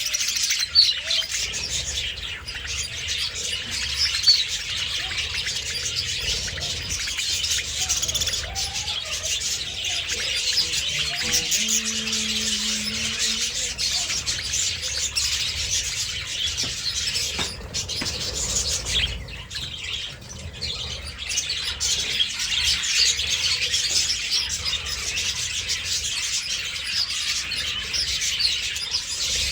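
A flock of budgerigars chirping and warbling together in a dense, unbroken chorus.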